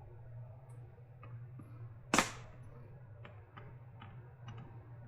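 Hand tools working on a battery pack's casing: one loud sharp snap about two seconds in and a few faint clicks and ticks, over a steady low hum.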